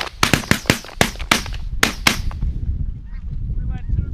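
A rapid volley of shotgun fire from several hunters, about ten shots in the first two and a half seconds. It is followed by snow geese honking near the end.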